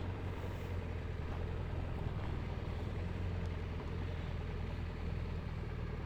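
Motorcycle engine running steadily at low revs, a low even hum.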